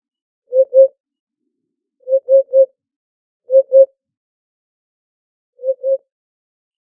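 Eurasian hoopoe singing its 'oop-oop' song: four phrases of two or three low hoots each, spaced one to two seconds apart.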